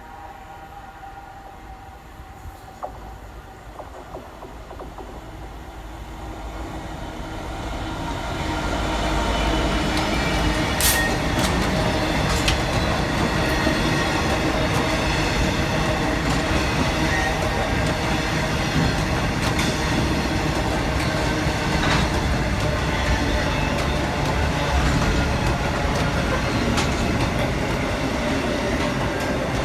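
Freight train of Class 66 diesel locomotive 66783 and empty bottom-drop coal hopper wagons passing. It grows louder over the first several seconds, then settles into a steady rumble of wagon wheels with scattered sharp clicks over the rail joints.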